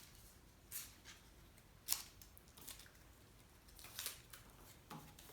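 Scissors snipping thin paper in short, separate cuts, about five snips roughly a second apart, one near two seconds in the loudest.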